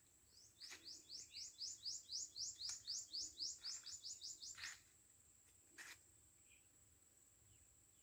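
A small bird calling a fast, even run of about twenty high chirps, four or five a second, that stops a little past the middle. A steady thin high tone runs underneath, with a few faint knocks.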